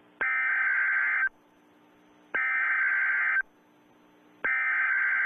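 Alberta Emergency Alert attention tone played over a radio: three long electronic beeps, each about a second long and about a second apart, signalling that an emergency alert broadcast is about to begin.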